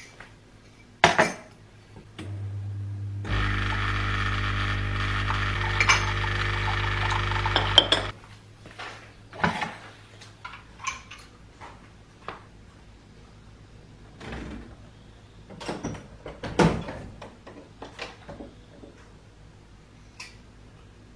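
Household kitchen sounds. After a click, a small electric appliance hums, then runs with a loud steady buzz for about five seconds and cuts off abruptly. Scattered clinks and knocks of dishes and cutlery follow.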